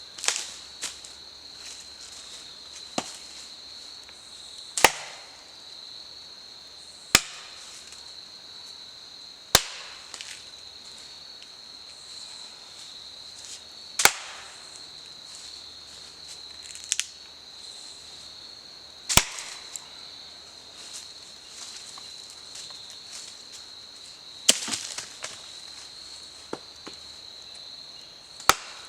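Campfire burning wet wood, giving sharp pops and cracks every few seconds, a handful of them loud, over a steady high-pitched insect chorus.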